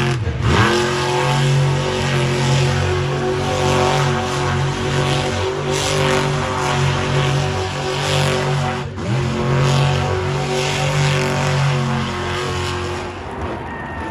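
RC monster truck spinning donuts: its motor and drivetrain whine at a steady pitch over tyres scrubbing the ground. The whine drops and winds back up just after the start and again about nine seconds in.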